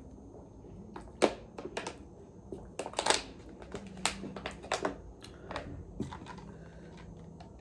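Blue crab shells being cracked and picked apart by hand, close to the microphone: irregular sharp cracks and clicks, the loudest about a second in and again about three seconds in.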